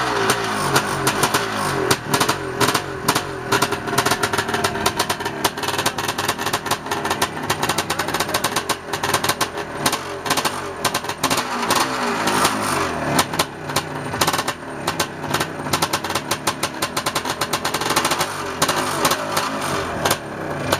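Dirt bike engine, a 465 with a different flywheel fitted, running hard and revving up and down under riding. Its note rises and falls, broken by rapid crackling pops.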